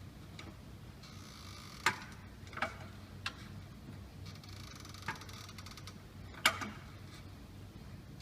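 About five sharp, irregularly spaced clicks over a faint steady hum.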